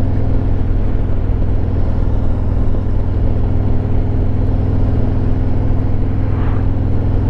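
2023 Harley-Davidson Road Glide Limited's Milwaukee-Eight 114 V-twin engine running at a steady cruise, its pitch holding even.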